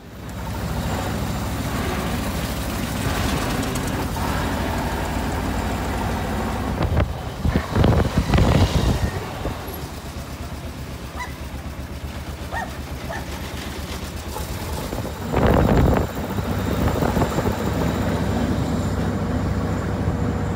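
Veteran car's engine running with a steady rapid beat, heard from on board with road and wind noise. Two louder rushing surges come about a third of the way through and again about three quarters through.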